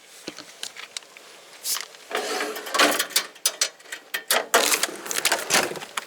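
Objects being handled and rummaged through: irregular clicks, knocks and rustling that grow busier and louder about two seconds in.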